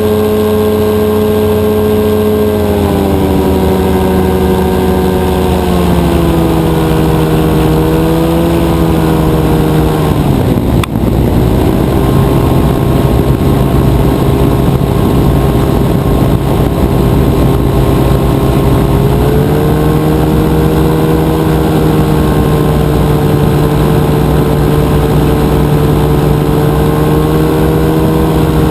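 Rotax 582 two-stroke engine of a powered parachute running loud and steady. Its pitch falls in steps over about the first ten seconds, dips briefly about eleven seconds in, then holds steady and rises slightly near the nineteen-second mark as the throttle changes.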